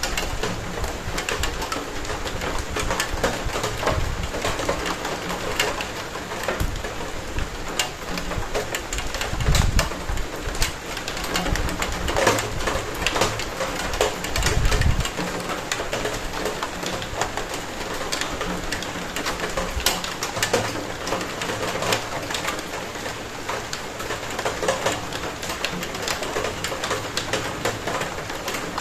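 Steady rain, with many sharp drips and drops striking hard surfaces close by. A low rumble swells briefly twice, about ten and fifteen seconds in.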